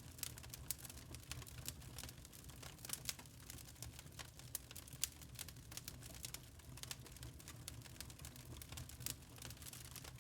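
Log fire crackling in a fireplace: a fast, irregular run of sharp pops and snaps from the burning wood over a low, steady rumble.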